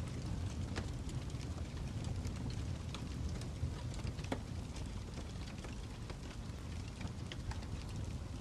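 Fire crackling: a steady low rumble of flames with scattered sharp pops and snaps, a few louder ones around the middle.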